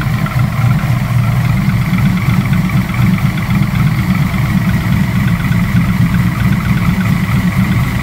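1995 Pontiac Trans Am's LT1 V8 with an aftermarket TPIS camshaft idling steadily while warming up after a cold start.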